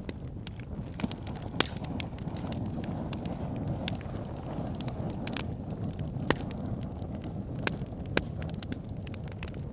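Wood fire crackling in a fireplace: a steady low rush of burning with frequent small crackles and several louder sharp pops scattered through.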